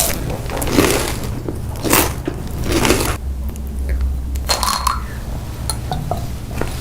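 Close-up chewing and crunching of food during a mukbang: about five separate crunchy bites and chews, roughly a second apart, over a steady low hum.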